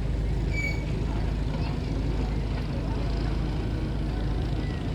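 Steady low rumble of a running vehicle engine, with a brief high squeak about half a second in.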